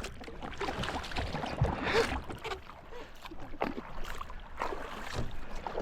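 Water splashing and sloshing, with scattered irregular knocks, as a rowboat is rowed.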